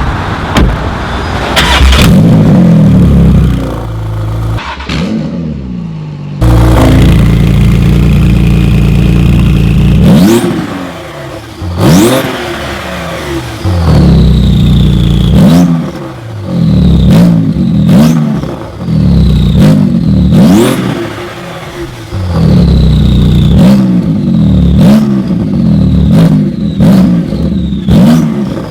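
Porsche 911 GT2 RS twin-turbo 3.8-litre flat-six revved through an exhaust with Soul Performance high-flow catalytic converters. There are a few long holds at high revs, then a run of quick throttle blips, several of them followed by a falling whistle.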